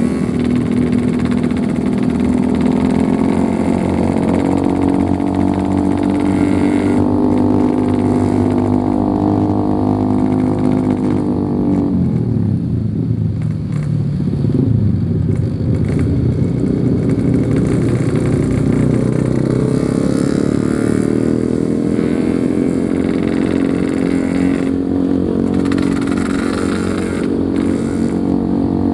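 Yamaha RX-King 135cc two-stroke single-cylinder motorcycle engine heard from the rider's seat while riding. It holds steady revs, drops off about twelve seconds in as the throttle eases, then climbs back up and holds again.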